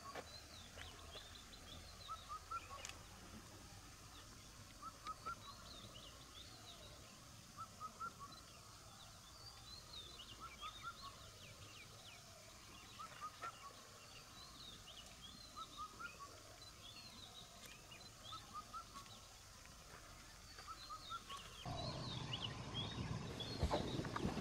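Faint birdsong: short chirping phrases repeating every couple of seconds over quiet outdoor background. Near the end the background becomes louder and noisier.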